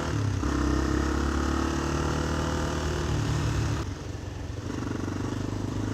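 Motorcycle engine running at a steady pitch, then easing off about four seconds in to a quieter, steady run.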